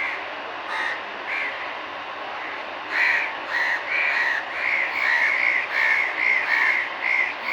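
Crows cawing: a few single calls, then from about three seconds in a quick run of caws, about two a second.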